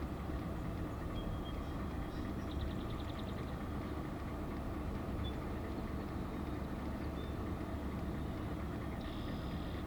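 Truck engine running steadily, heard from inside the cab as a low rumble, with a few faint high chirps over it.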